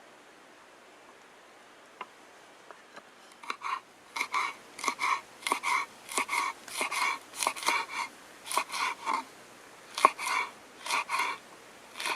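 Knife cutting vegetables on a cutting board: a few light taps, then from about three and a half seconds in a run of short crunchy slicing strokes, about two a second, with brief pauses.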